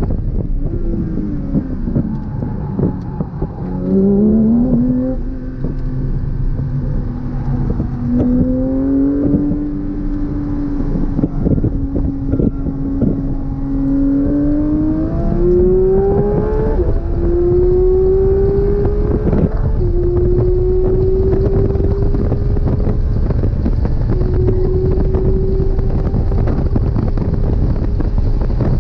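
Porsche 992 GT3 RS's naturally aspirated flat-six on track. The engine note falls under braking with quick blipped downshifts in the first few seconds, then climbs through the revs with two upshifts in quick succession about two-thirds of the way in, over steady wind and road noise.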